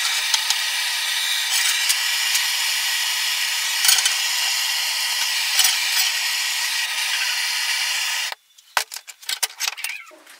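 Gas torch flame hissing steadily while heating a round steel bar before bending. It cuts off abruptly about eight seconds in, followed by a few light knocks and clicks.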